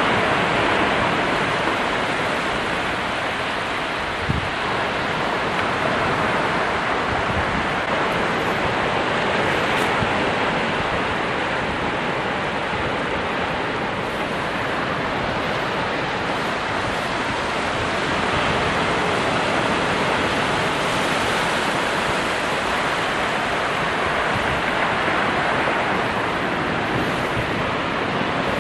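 Ocean waves breaking continuously on a shore, a dense steady surf wash that swells and eases gently every several seconds.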